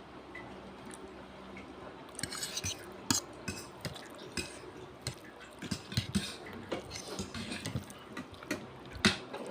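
Cutlery clicking and scraping against a plate with wet eating sounds as saucy palabok noodles are stirred and eaten; the clicks start about two seconds in and the sharpest comes near the end.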